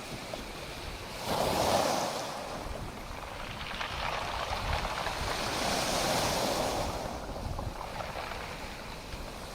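Sea waves washing onto the shore: one surge breaks sharply about a second and a half in and dies away, then a broader, slower swell builds and fades in the middle of the stretch.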